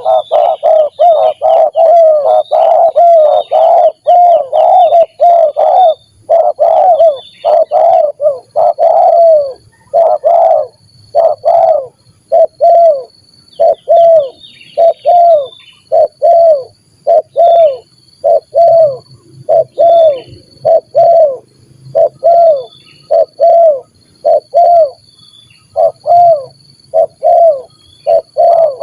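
Spotted doves (terkukur) cooing in a fast stuttering series of short, loud coos, the 'gagap' (stammering) call type. The coos come packed close together at first, then spread into more evenly spaced notes.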